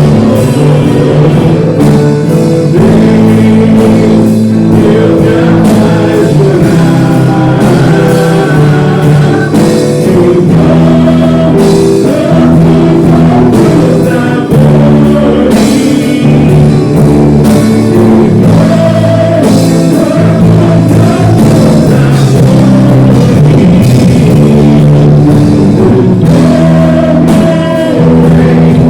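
Loud worship band music with electric guitar and drum kit, sustained chords that change every second or two, and some singing.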